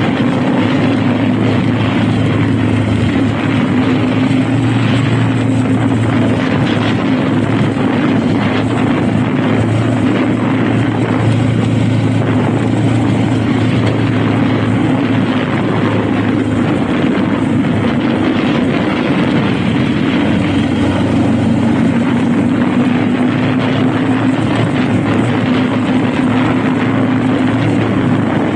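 Honda Rebel cruiser motorcycle engine running at a steady cruise, its note holding nearly constant, over a continuous rush of wind and road noise.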